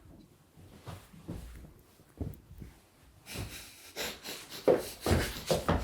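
Stifled laughter from people close to the microphone: short breathy puffs and sniffs through the nose, faint at first and louder in the second half with a few brief voiced giggles.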